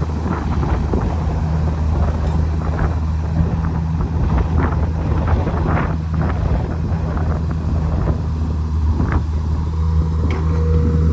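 Diesel engine of heavy earthmoving machinery running steadily, with scattered short metallic knocks and clanks.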